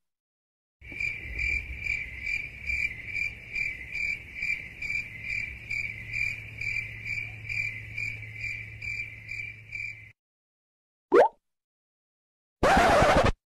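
Crickets chirping in a steady pulsing rhythm, about two chirps a second: the 'awkward silence' meme sound effect. It cuts off suddenly and is followed by a short rising blip. Near the end there is a loud burst of noise lasting under a second.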